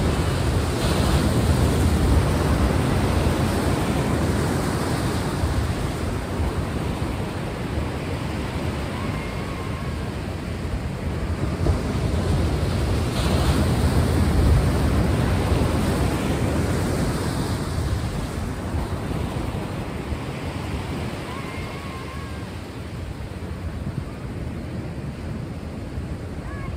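Sea waves washing ashore, a steady surf that swells up twice, at the start and again about halfway through, then eases off.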